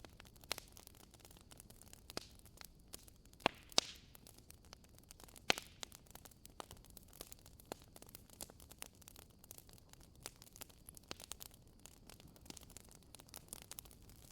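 Wood fire burning in a fireplace, crackling: irregular sharp snaps and pops over a faint hiss, with a pair of louder pops around four seconds in and another about five and a half seconds in.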